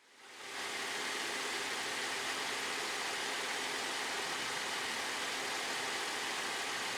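Steady hiss with a faint low hum, like an idling engine, fading in over the first half second and then holding even.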